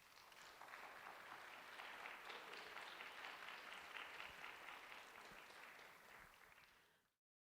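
Faint audience applause, a dense patter of many hands clapping that swells within the first second, holds steady, eases slightly near the end and then cuts off abruptly.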